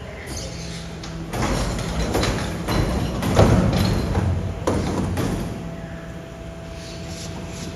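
Mercedes-Benz Arocs garbage truck running with a steady hum while a series of heavy thuds and clanks goes on for about four seconds, loudest in the middle.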